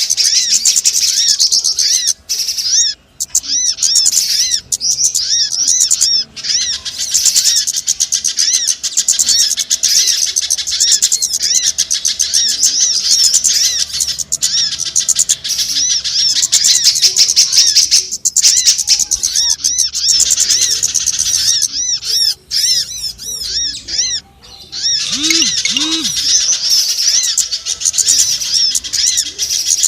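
Lure recording of small songbirds calling: dense, rapid, high-pitched chirping and twittering that runs almost without pause, broken by a few short gaps. Two short, low calls sound about 25 seconds in.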